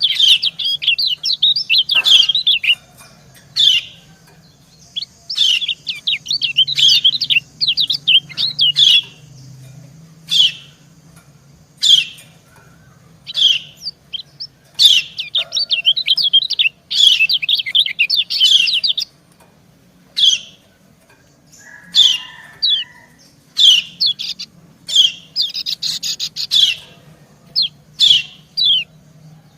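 Yellow white-eyes (kecial kuning) calling back and forth: the female's excited 'ciak' chirps come in dense runs of quick high notes, alternating with short single chirps, a call used to stir up and draw out male white-eyes.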